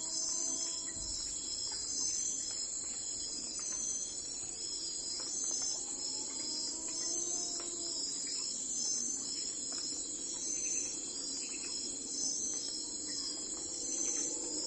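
A chorus of crickets chirping steadily in a dense, pulsing high-pitched trill. A faint lower tone swells and glides up and down about every seven seconds.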